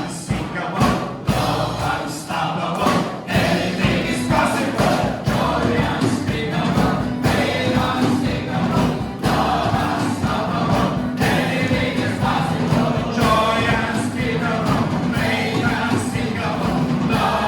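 Many voices singing a worship song together over live band music.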